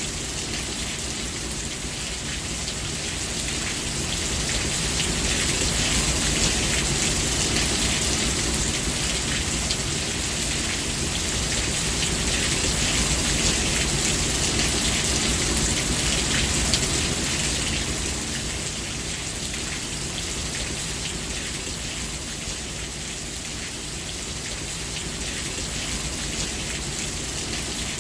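Steady heavy rain falling on surfaces, a dense hiss of drops with a low rumble underneath, swelling slightly louder in the middle.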